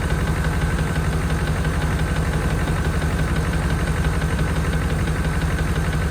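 1992 Chevrolet Caprice wagon's V8 running steadily with a light, rapid ticking knock. The owner places the knock in the front of the engine and thinks it could be the rocker arms.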